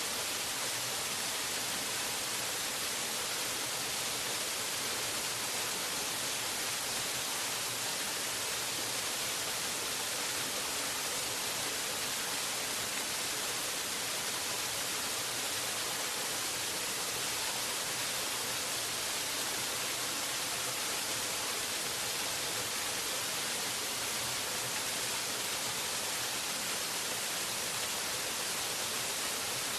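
Waterfall, water falling and rushing in a steady, even hiss that is strongest in the high range and never changes.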